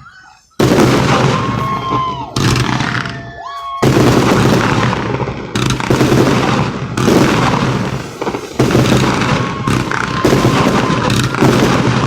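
Fireworks going off in a rapid barrage: loud booms about every one to two seconds, each fading off before the next, with thin whistling tones in between.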